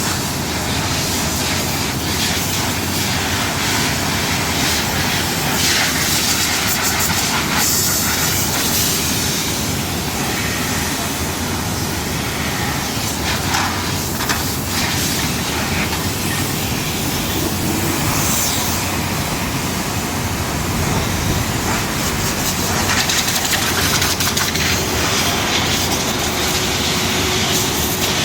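Steady mechanical noise with a hiss, even in level and without a clear rhythm or pitch.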